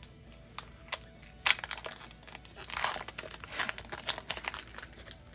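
Foil booster pack wrapper handled and torn open, with crinkling rustles and a few sharp snaps.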